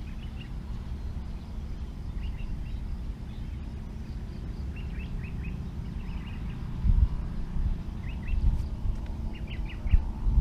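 Small birds chirping in short bursts of quick high notes, five or so times, over a steady low rumble.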